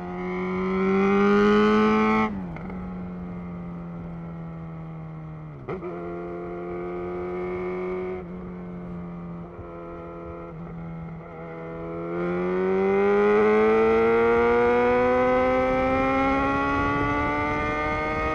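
Yamaha XJ6 inline-four motorcycle engine with an aftermarket Black Widow full exhaust system, heard while riding. It pulls up in pitch, its note dips sharply twice, then it holds a steady cruise. From about twelve seconds in it climbs again in a long acceleration and gets louder.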